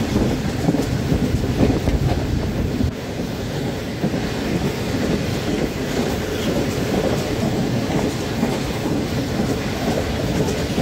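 Running noise of a passenger train at speed, heard from aboard a coach at an open window: steel wheels rumbling on the rails with a steady clickety-clack over the rail joints.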